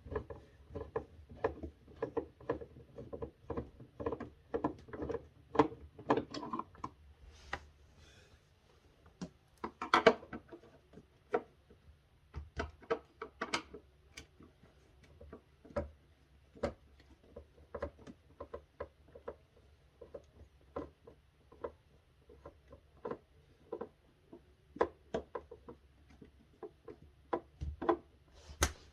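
Irregular clicks, taps and knocks of a hand screwdriver and plastic refrigerator freezer parts being worked and handled, with one sharper knock about ten seconds in.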